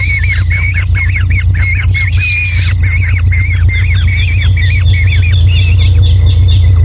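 A bird calling in a rapid string of short, falling chirps, about four or five a second, over a steady high pulsing buzz like an insect and a loud low hum.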